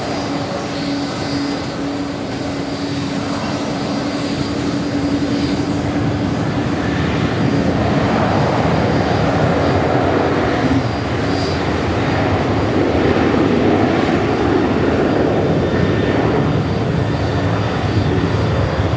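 Pratt & Whitney PW4074 turbofans of a Boeing 777-200 running with a steady hum, joined by a rushing jet roar that grows louder about halfway through.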